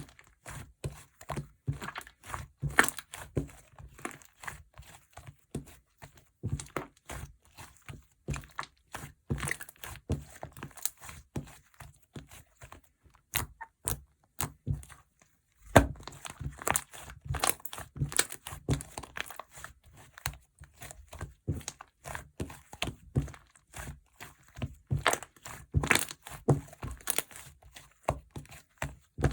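Slime being squeezed, folded and pressed by hand, making a dense, irregular run of small clicks, pops and crackles, with a pause of about two seconds midway.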